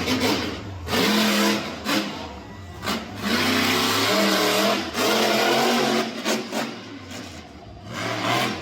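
Monster truck engine revving hard in repeated surges, each rising and falling over a second or two, with sharp cracks between the surges.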